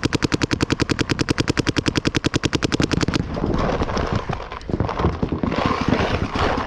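Paintball marker firing a rapid, even stream of shots, about a dozen a second, that stops abruptly about three seconds in. Scattered, fainter pops and scuffling noise follow.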